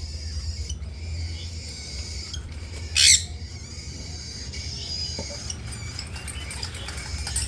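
A pet parrot gives one loud, shrill squawk about three seconds in, with fainter bird chirping around it and a steady low hum underneath.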